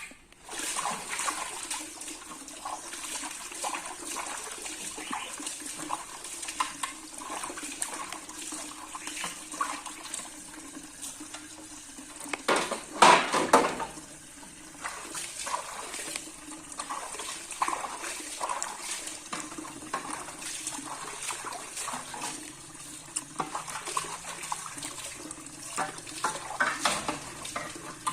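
Water running from a tap into a sink while things are washed, with frequent small clinks and knocks of dishes or plastic parts. About halfway through comes a brief, louder splash and clatter.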